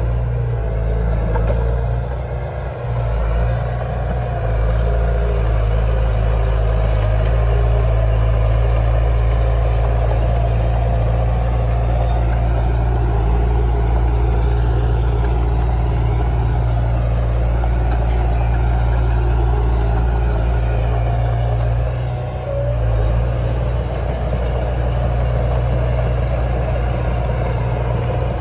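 Heavy diesel engine of earthmoving machinery running steadily, with a deep hum. The level dips briefly about two and a half seconds in and again about twenty-two seconds in.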